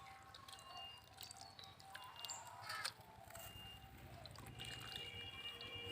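Faint water dripping and splashing, with scattered small clicks.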